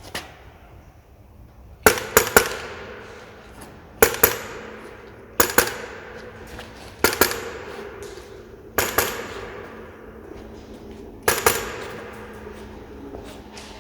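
Polarstar Kythera HPA engine in an HK416 airsoft replica firing semi-automatic shots through a fitted suppressor. There are six groups of sharp cracks, two or three quick cracks each, coming about one and a half to two and a half seconds apart.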